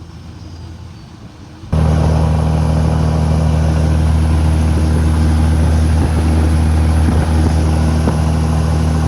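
Cummins diesel engine of a semi-truck running under load, a steady low drone that jumps suddenly much louder a little under two seconds in and holds there.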